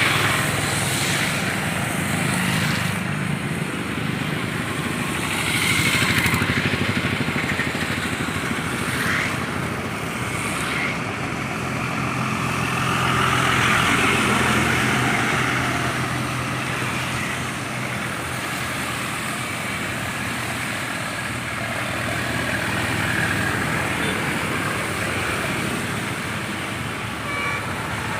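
Bus engine running steadily, with a constant low hum under a wash of road and tyre noise.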